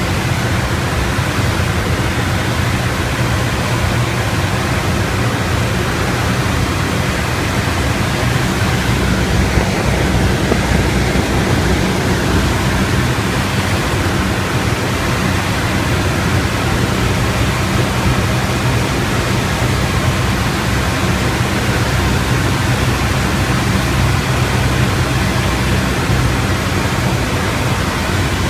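Steady drone of a Piper PA-38 Tomahawk's four-cylinder Lycoming engine and propeller heard from inside the cockpit in flight, under a loud, even rush of airflow noise. The engine note holds steady.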